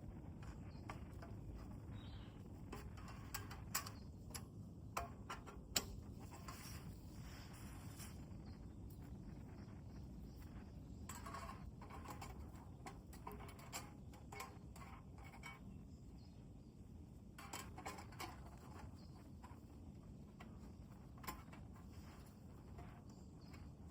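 Wood campfire crackling faintly: irregular sharp pops and clicks, a few louder snaps, over a low steady rumble.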